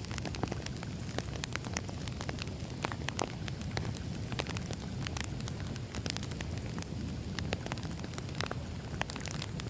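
Wood fire burning, logs crackling with frequent irregular sharp pops over a low steady rumble.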